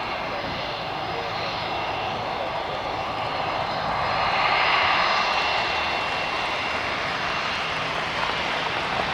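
Airliner engines, a steady rushing drone with a faint whine on top, that swells to its loudest about halfway through and then eases slightly.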